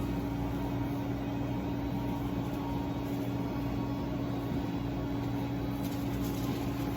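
Steady machine hum of running shop equipment: a constant low-pitched tone over an even background whir.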